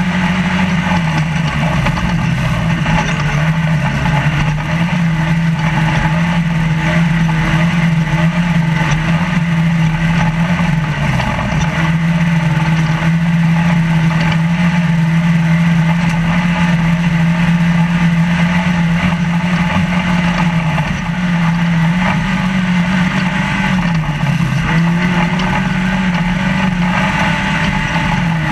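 Trophy Lite off-road race truck's engine running hard at high, steady revs, heard from inside the cab over a constant rushing noise. The pitch twice drops briefly and climbs back, about a third of the way in and again near the end.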